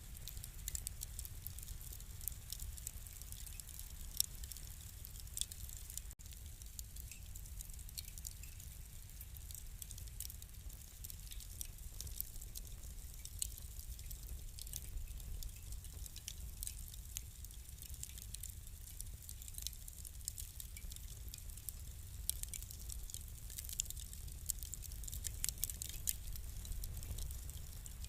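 Crackling fire: a steady low rumble with frequent irregular sharp pops and crackles.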